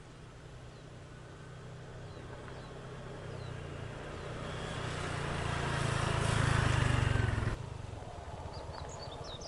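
A motor vehicle's engine approaching and growing steadily louder, then cut off abruptly about three-quarters of the way in, leaving quieter outdoor background with a few bird chirps.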